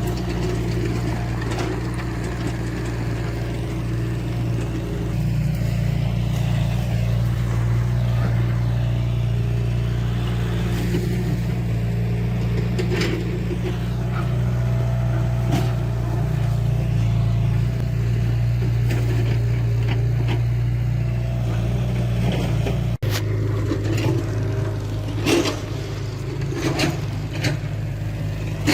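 Diesel engine of heavy earthmoving machinery running steadily, with scattered short metallic knocks and clanks from the working machine. The engine note shifts slightly at a cut about 23 seconds in.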